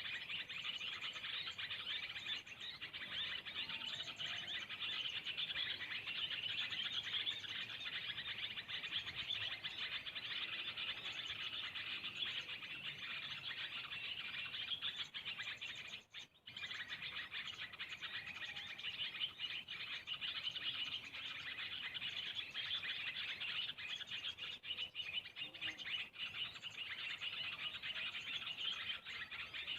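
Dense, continuous high-pitched chirping of birds, unbroken except for a brief dropout about halfway through.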